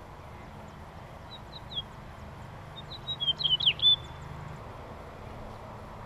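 Bird chirping near the feeders: a few short high notes about a second and a half in, then a quick, louder run of chirps a little past the middle, over steady outdoor background noise.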